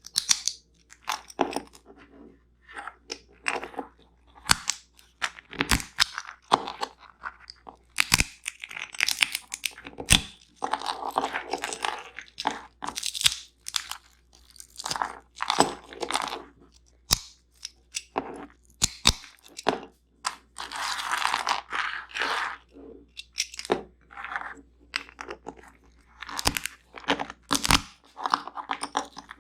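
Close-miked crunching and cracking of nuts and seeds: irregular sharp cracks and crackly crunches, some in quick runs and some drawn out over a second or so.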